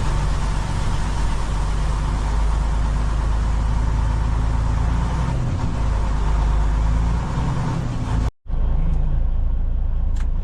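Steady rumble of a semi-truck's diesel engine running, with a brief dropout about eight seconds in.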